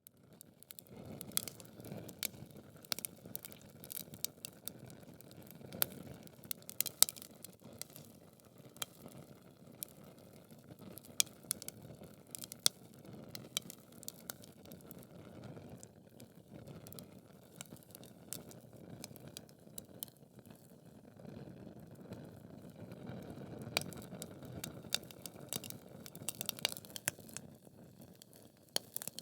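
Wood logs burning in a fireplace: frequent sharp crackles and pops over the low, steady rush of the flames, with the loudest pop about seven seconds in.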